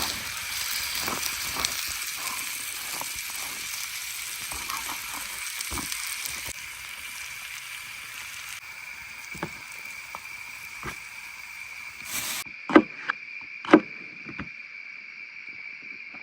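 Lamb sizzling on a grill, a steady hiss, over a steady chirring of crickets. About twelve seconds in the sizzling cuts off suddenly, leaving the crickets and a few sharp knocks.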